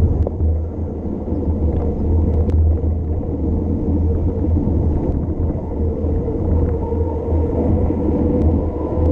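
Steady, muffled wind rumble on the camera's microphone as the bike descends, with a few faint clicks.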